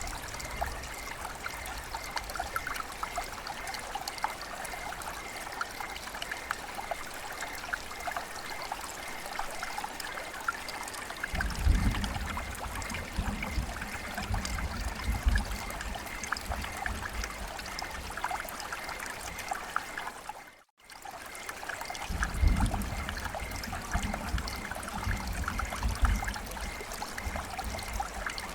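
Running water trickling and splashing steadily, full of fine drop clicks. A deeper rumble of the water swells in about twelve seconds in and again after the middle, and the sound cuts out completely for a split second about two-thirds of the way through.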